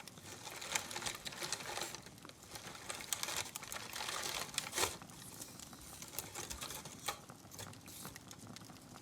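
Handmade Christmas stars being handled and rummaged in their box: a busy run of soft rustling and crinkling with many small ticks and clicks, a few sharper ones a couple of seconds in and about five seconds in.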